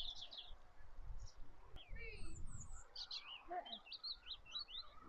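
Small birds chirping and twittering: quick clusters of short, high notes throughout, over a faint low rumble.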